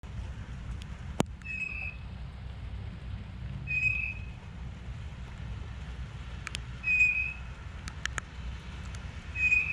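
A bird calling outdoors, a short clear note repeated four times about every two and a half to three seconds, over a steady low rumble of traffic. A few sharp ticks fall between the calls.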